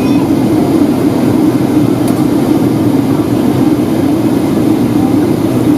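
Steady cabin noise inside a Boeing 757-200 in flight: airflow over the fuselage and the drone of its Rolls-Royce RB211 engines, with a strong low hum.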